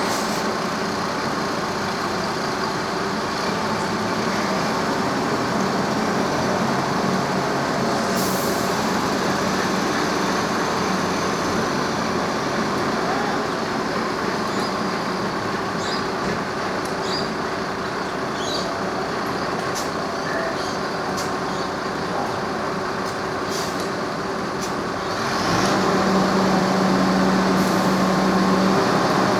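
Heavy vehicle engine running steadily with a low hum, growing louder about 25 seconds in, with a few light clicks and knocks over it.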